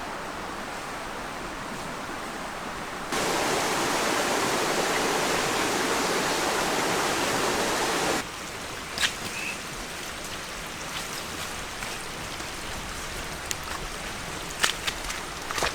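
Steady rushing water of a waterfall and its stream. It jumps louder about three seconds in and drops back abruptly about five seconds later. A few light knocks come near the end.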